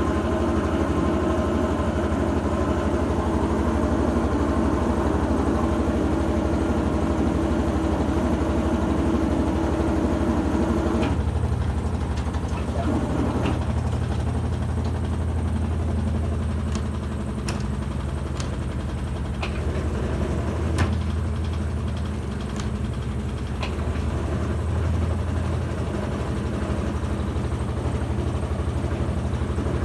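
Electrolux Turbo 13 kg washing machine running with a steady motor hum. About eleven seconds in the sound changes to a deeper hum, and scattered sharp clicks or knocks follow. This is the strange noise the owner is complaining of.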